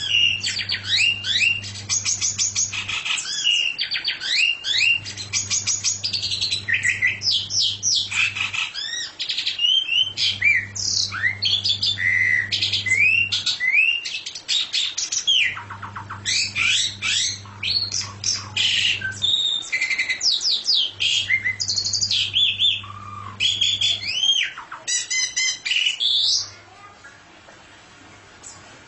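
A songbird singing a fast, varied song of chirps, trills and rising and falling whistles, which stops a couple of seconds before the end. A low hum comes and goes underneath in stretches of a few seconds.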